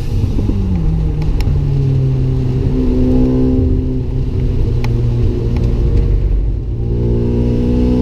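Mazda RX-7's single-turbo rotary engine under track driving. The revs drop sharply at the start as the throttle comes off, then the engine runs at lower revs with small rises and falls, and pulls up again near the end. A couple of sharp clicks are heard along the way.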